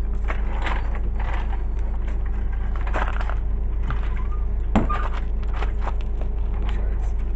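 Scattered clicks, creaks and knocks of hands-on work in a garage, with one sharper knock about five seconds in, over a steady low hum.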